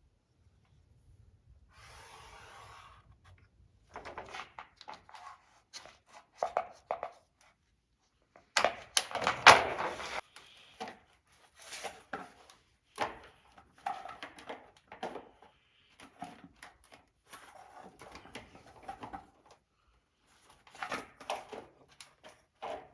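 Plastic body panel being cut by hand: uneven bursts of clicks and scraping strokes, the loudest burst about nine to ten seconds in.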